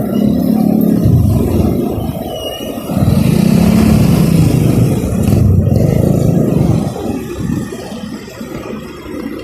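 Motor vehicle engines in road traffic, with a steady engine hum over road noise. It is loud for the first second and again from about three seconds in, and eases off near the end.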